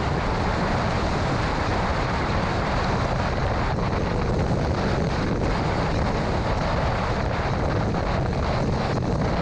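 Steady rushing noise of a car driving through a severe thunderstorm: wind and storm noise over tyre and road noise, unbroken and even.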